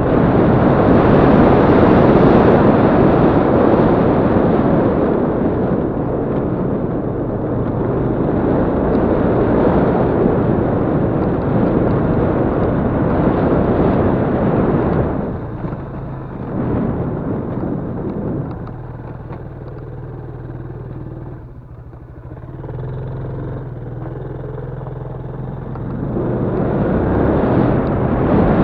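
Yamaha Crypton-X motorcycle's single-cylinder four-stroke engine running on the move, mixed with rushing noise. The sound eases off about halfway through, is quietest a little after that with the engine note plainer, and builds again near the end.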